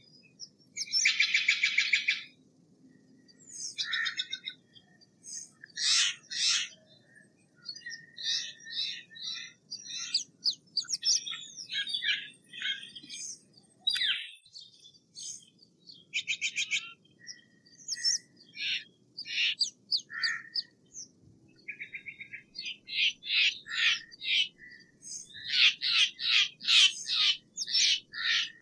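Steller's jay calling: a string of harsh calls and shorter chirps, with one long harsh call about a second in and a fast run of repeated harsh notes near the end.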